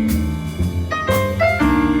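Student jazz band playing a holiday tune, with piano and a bass line under sustained melody notes and a cymbal struck near the start and again about a second in.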